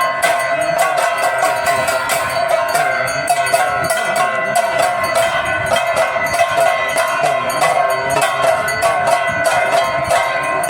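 Aarti bells and metal percussion clanging in a fast, continuous rhythm, over a sustained wavering tone.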